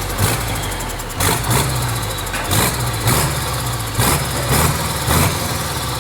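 Hino F17D twin-turbo diesel truck engine running steadily, with short bursts of hiss recurring every half second to a second over its low drone.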